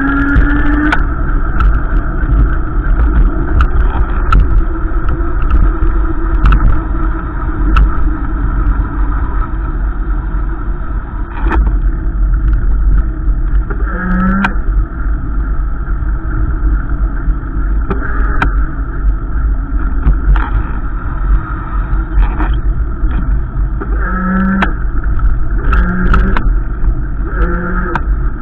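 Strong wind buffeting the microphone in a heavy, constant low rumble, with a steady rushing noise over it. Short pitched sounds break through once in the middle and three times near the end.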